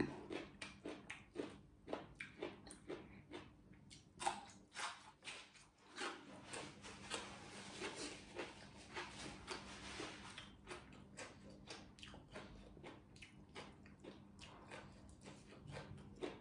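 A person chewing food close to the microphone: a run of soft mouth clicks and smacks, about two or three a second, with a steadier rustling hiss for a few seconds in the middle.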